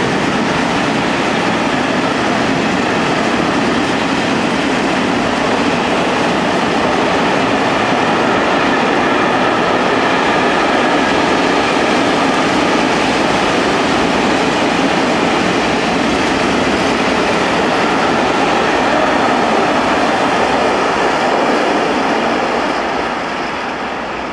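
Freight train of tarpaulin-covered goods wagons rolling past, a steady loud noise of wheels on the rails that begins to fade near the end as the last wagon draws away.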